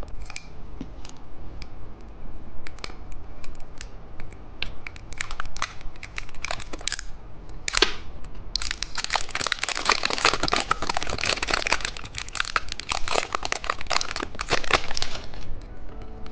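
Plastic candy packaging being torn open and crinkled: scattered crackles at first, then dense, continuous crinkling from about halfway through until shortly before the end.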